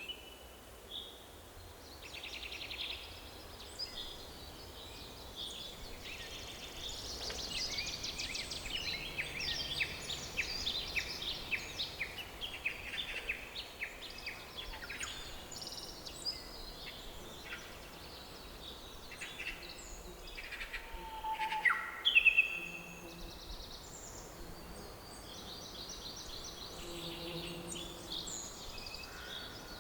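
Forest birds singing and calling, many short chirps and rapid trills from several birds at once, over a faint steady background hiss. One louder call stands out a little past the middle.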